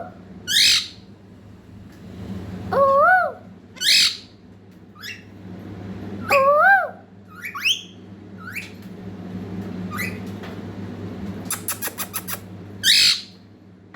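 A baby parrot calling: several short, sharp, high squawks that drop in pitch, and between them three wavering whistled calls that rise and fall. A quick run of clicks comes near the end.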